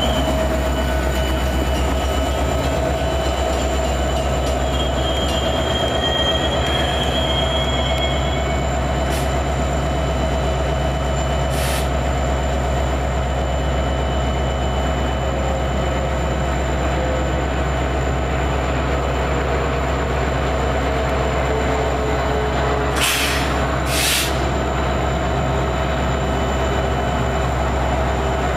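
Metra commuter train's diesel locomotive rumbling steadily as the train draws up and stands at the platform, with a thin high squeal early on. Two short hisses come near the end.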